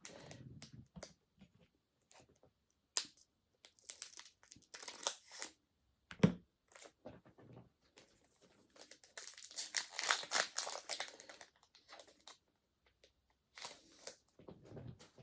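Foil Pokémon booster pack wrapper crinkling and being torn open in several short bursts, with a single knock about six seconds in.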